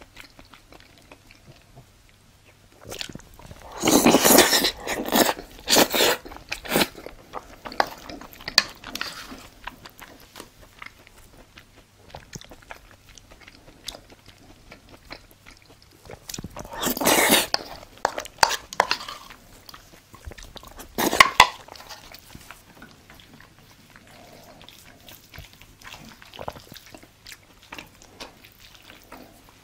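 Close-up sounds of a person eating a spoonful of gochujang-dressed raw beef (yukhoe) and rice: chewing and biting, with scattered small clicks and a few loud bursts of mouth noise, the loudest about four and seventeen seconds in.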